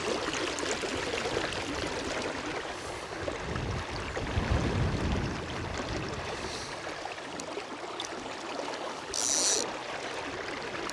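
River water flowing steadily, with a low rumble of wind on the microphone about four seconds in and one short, loud, high-pitched buzz about nine seconds in.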